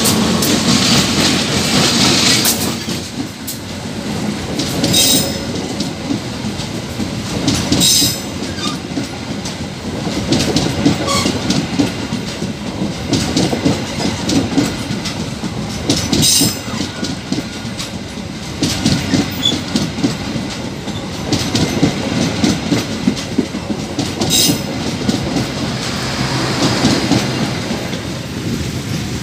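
A CC 204 diesel-electric locomotive passes close by, its engine heard for the first couple of seconds. Then a string of stainless-steel passenger coaches rolls past, the wheels clattering over the rail joints, with a louder sharp clack every several seconds.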